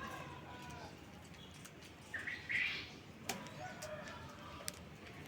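Cockatiels in an aviary chirping softly, with one short, loud, harsh call a little past two seconds in and a few sharp clicks after it.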